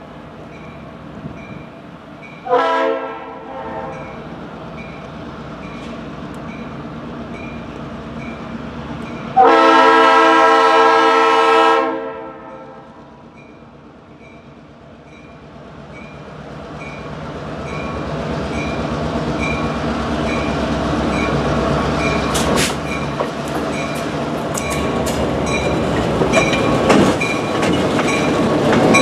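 EMD GP38-2 diesel locomotive sounding its multi-note air horn, a short blast a couple of seconds in and a long one about ten seconds in. Then its engine and the freight train's wheels grow steadily louder as it approaches and passes close by, with sharp wheel clicks over rail joints near the end.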